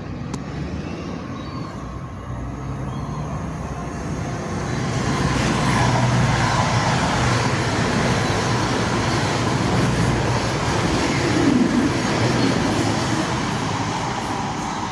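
Two coupled Class 220 Voyager diesel multiple units passing, engines running with a low drone. The sound builds about five seconds in, peaks, and eases near the end as the train goes by.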